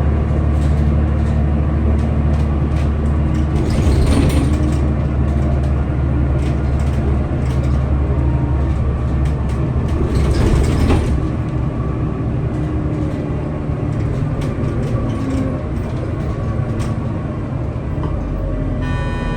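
Scania L94UB bus running, a steady low engine drone with light rattles, and two brief hissing bursts about four seconds and ten seconds in.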